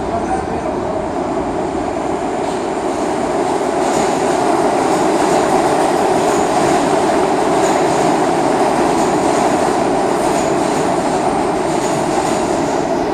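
New York City Subway R179 train running on the tracks: a loud, steady rolling noise that swells a little after a few seconds, with faint short high wheel squeaks recurring.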